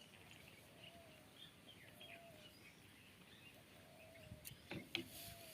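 Faint bird calls, several short chirps and a repeated lower whistled call, over quiet outdoor background hiss, with a few soft clicks near the end.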